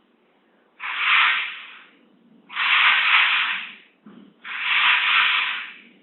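Three hissing, scraping noises about two seconds apart, each lasting a second or so, from work at a neighbouring factory.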